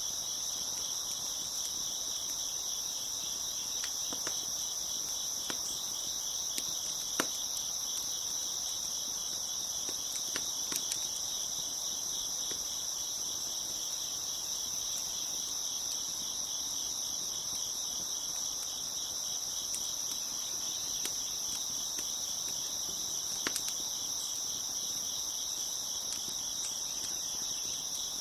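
A steady chorus of crickets chirping, with the occasional pop and crackle of a wood fire; a few sharper pops stand out here and there.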